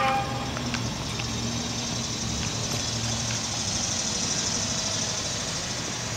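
Outdoor heat pump units running: a low, steady hum with an even rush of air on top, the hum easing about halfway through.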